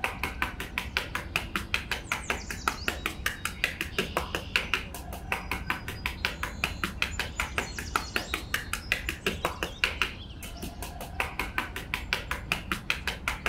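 Small metal trowel scraping and smoothing sand in quick, even strokes, about five a second, with a short pause about ten seconds in.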